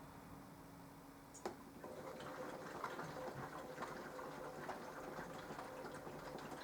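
Mini washing machine running a wash cycle: a sharp click about a second and a half in, then a steady faint hum with irregular light ticking.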